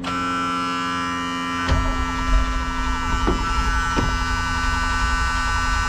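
A steady electric buzz throughout, and about two seconds in the 1979 Ford F150's V8 starts with a click and settles into a low, uneven rumble, with a few more clicks.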